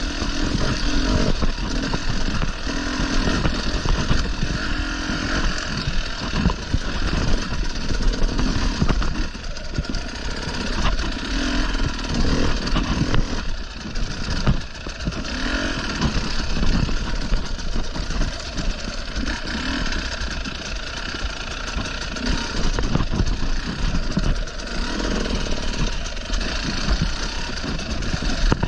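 Enduro dirt-bike engine running under way, its loudness rising and falling as the throttle opens and closes.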